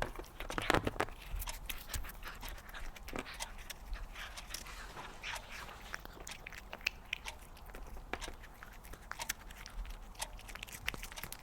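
A cat eating close to the microphone: irregular quick clicks and smacks of chewing and licking.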